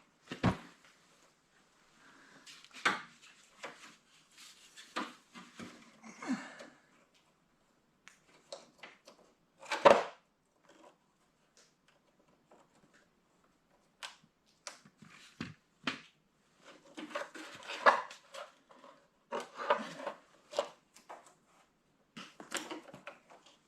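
Scattered clicks, taps and rattles of hand tools and plastic parts as a tractor tail light assembly is worked loose, with one sharp knock about ten seconds in and busier clusters of clicking near the end.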